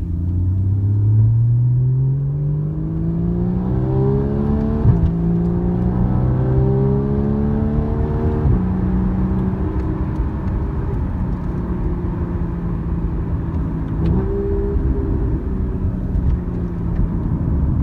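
Porsche 981 Boxster/Cayman flat-six through a Soul Performance valved exhaust, pulling hard through the gears. The pitch climbs, drops at an upshift about five seconds in, climbs again and drops at a second upshift, then holds a steady cruise. About fourteen seconds in the pitch jumps up suddenly, as at a downshift.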